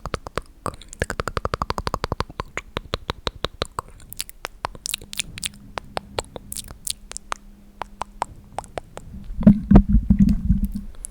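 ASMR mouth sounds close to the microphone: rapid wet mouth clicks and "tk tk" tongue clicks, many a second at first, then sparser. Near the end a louder low rumble lasts about a second and a half.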